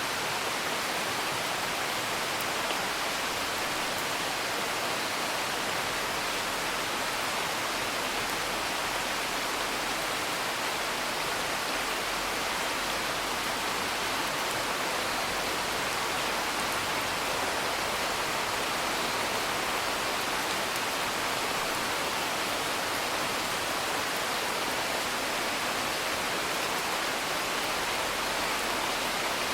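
Steady rain falling, an even unbroken hiss, with a few faint ticks from a crackling fire mixed in.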